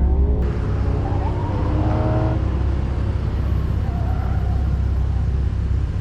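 A car engine running at low revs with a steady low drone, its pitch rising briefly in the first half second.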